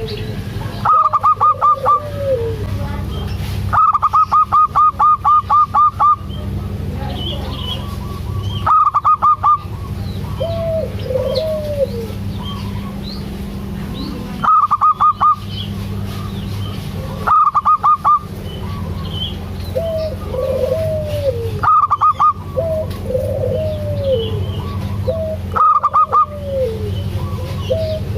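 Zebra dove (perkutut) singing: repeated runs of quick, evenly spaced staccato coo notes, with lower arching coos between the runs. A steady low hum sits underneath.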